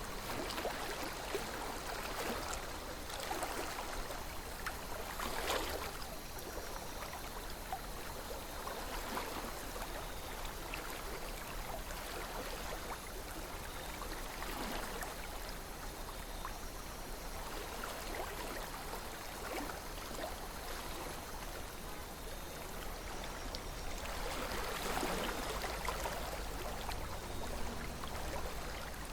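Calm river flowing: a steady, gentle babble of water that swells a little now and then.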